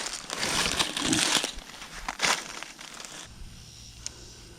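Rustling and crunching of brush and ground cover as a person gets up off the ground and moves. It is loudest in the first second and a half, with another burst a little after two seconds, then it dies down.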